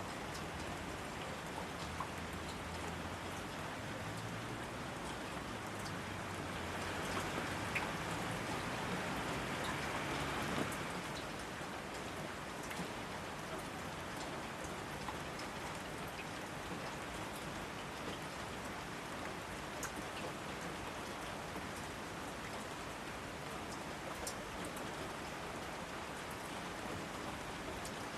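Steady rain falling, a dense even hiss with scattered close drops ticking. It swells louder for a few seconds about seven seconds in, then settles back.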